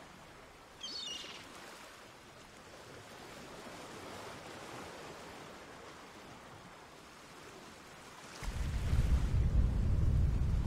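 Shoreline ambience: a soft, steady wash of waves, with a short warbling bird call about a second in. About eight seconds in, a much louder low rumbling noise comes in and carries on.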